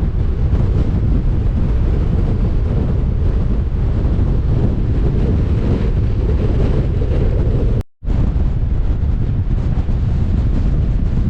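Strong wind buffeting the camera microphone: a loud, continuous low rumble with no pitch to it. It drops out completely for a moment about eight seconds in.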